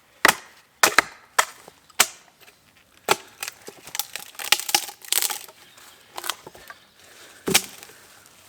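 Wood being chopped: sharp blows into wood, about two a second at first, then spaced more irregularly with a cluster of cracking hits just past the middle and one last strong blow near the end.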